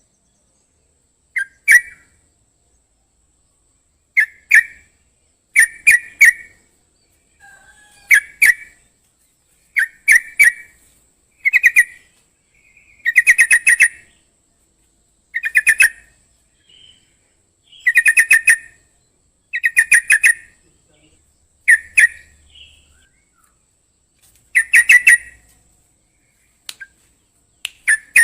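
Yellow-vented bulbul (trucukan) in full song: short, loud phrases repeated every one to two seconds, with a few longer pauses.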